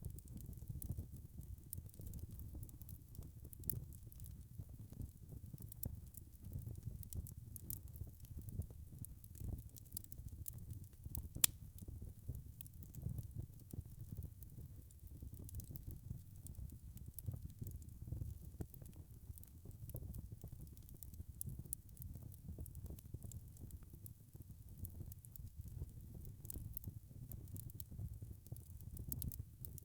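Wood fire burning with a low steady rumble and frequent small crackles and pops, one sharper pop about eleven seconds in.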